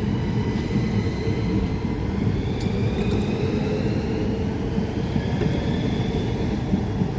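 Class 395 Javelin high-speed electric train pulling away, its wheels and running gear rumbling steadily while the traction motors whine, rising slowly in pitch as it accelerates.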